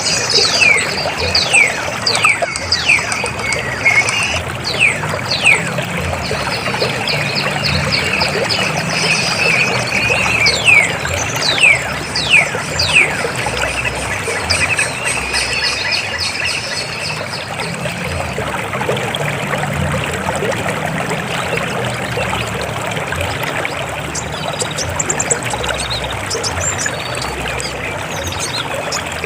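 River water flowing steadily over rocks. Over the first half a bird gives a run of quick falling whistles.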